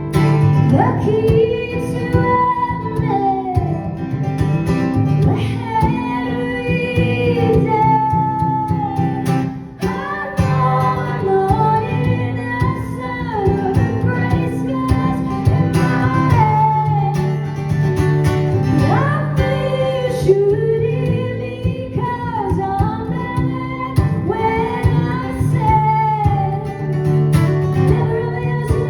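Female lead vocalist singing a melody of long held notes over guitar-led accompaniment, captured as a live concert recording.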